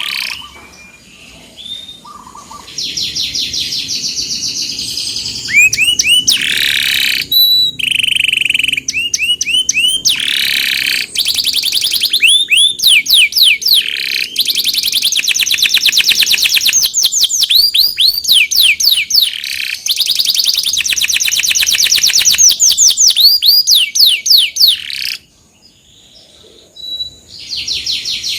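Domestic canary singing long, rapid rolling trills: runs of fast, evenly repeated high notes strung into phrases. It pauses briefly near the start and again a few seconds before the end.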